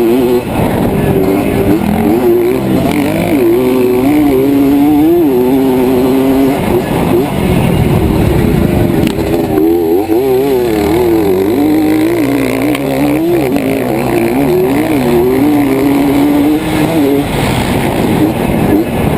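Dirt bike engine running hard, its revs rising and falling again and again without a break.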